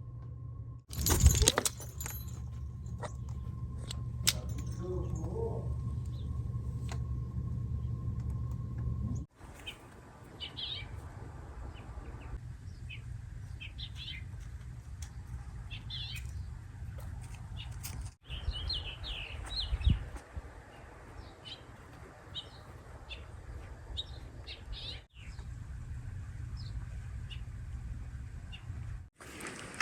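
Small birds chirping: many short, high calls scattered through the second part, over a steady low rumble. A loud knock about a second in.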